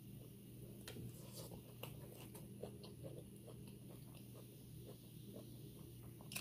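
Faint close-mouthed chewing: soft, scattered wet clicks and smacks of someone eating, over a low steady hum.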